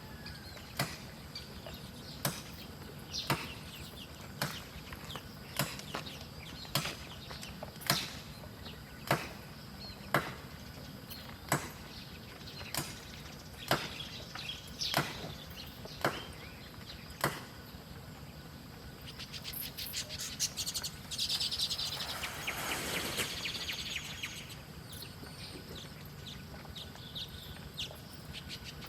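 Small birds: sharp short chips about once a second for most of the first half, then a few seconds of fluttering, rustling wingbeats.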